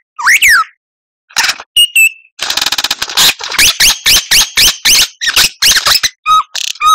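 White-rumped shama (murai batu) song: a falling whistle, a short pause, then a fast dry rattle and a rapid run of varied sweeping whistled notes.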